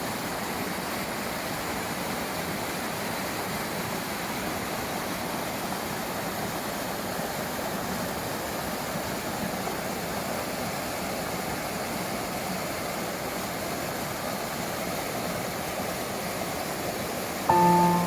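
Valley stream water flowing in a steady rush. Music with clear bell-like tones cuts in suddenly near the end.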